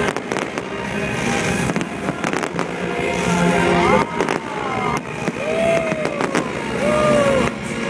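Fireworks display: aerial shells bursting in a rapid, dense run of bangs and crackles.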